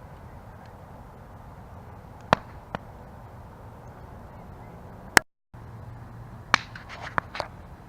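Wood campfire burning with a steady low rustle, broken by sharp crackles and pops: a few single pops, the loudest about five seconds in, then a quick run of pops near the end. The sound cuts out completely for a moment just after the loudest pop.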